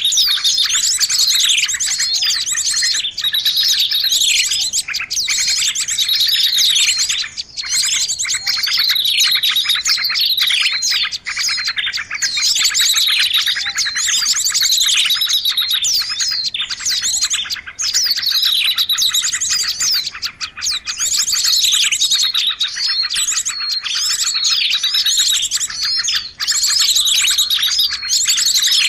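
Dense, unbroken chorus of many small songbirds chirping and twittering over one another, with quick high notes sweeping downward. It is a combined bird-lure call track, made to draw small birds in.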